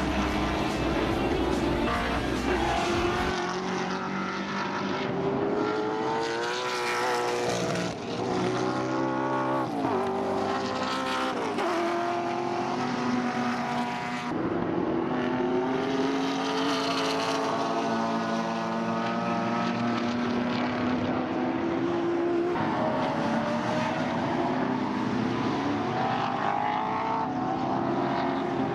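Several V8 muscle race cars running on the track, engines revving up through the gears and dropping back, their pitches rising and falling as they pass and overlap.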